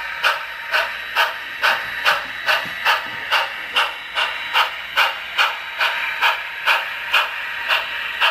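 DCC sound decoder in an Sn3 narrow-gauge model steam locomotive playing steam exhaust chuffs, steady at about two and a half a second, thin and tinny through the model's small speaker.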